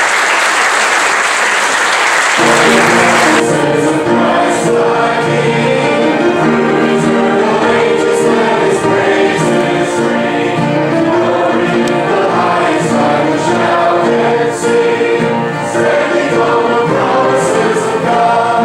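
Congregation applauding for about three seconds, then a gospel-style worship song with group singing starts up and carries on.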